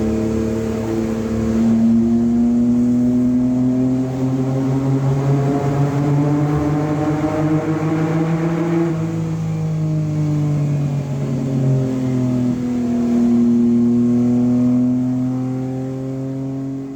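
1992 Autozam Scrum (Suzuki Carry) kei truck's small three-cylinder engine pulling under load. The revs climb steadily for several seconds, fall away about nine seconds in, dip again a few seconds later, then run steady.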